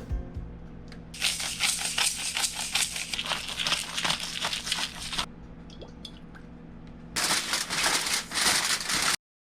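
Crackling and sizzling of food cooking over an open wood fire, dense irregular crackle in two stretches with a quieter pause between. The sound cuts off abruptly near the end.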